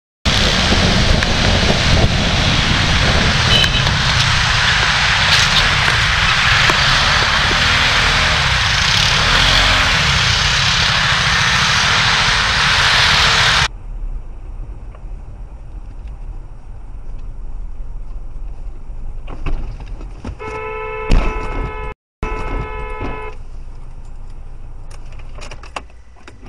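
Loud, steady road and wind noise of a car driving, cut off abruptly about halfway through. It is followed by a quieter low traffic rumble, and near the end a car horn sounds a steady note for about three seconds, broken once by a brief dropout.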